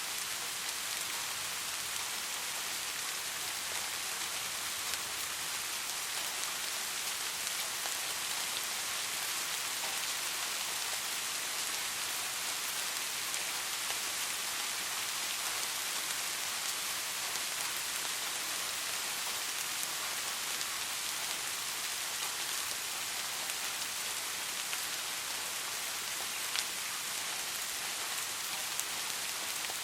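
Steady rain falling on a surface: an even hiss of many fine drops, with small individual drop ticks scattered through it.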